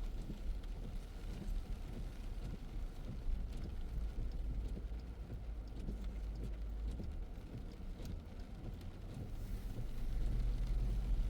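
A car driving in the rain: a steady low rumble of engine and road, with faint scattered ticks of raindrops. The rumble grows louder near the end.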